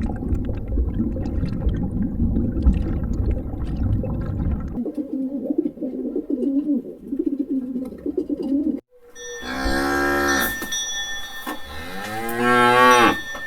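Cattle mooing, with two long, loud moos in the second half.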